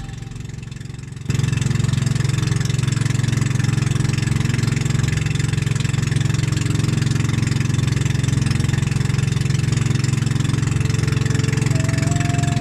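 A motor engine running steadily at a constant speed. It cuts in abruptly about a second in.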